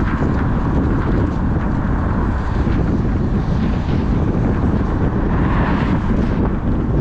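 Steady rumble of a car driving on wet roads, with tyre and road noise and wind on the microphone. A hiss swells briefly about five and a half seconds in.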